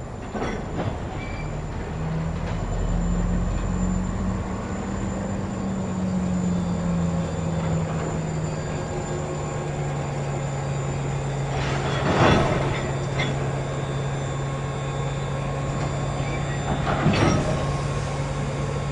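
Diesel engine of a rail engineering vehicle running with a steady hum that rises in pitch a few seconds in and then settles back. The wheels clatter briefly on the rails twice, near the middle and near the end.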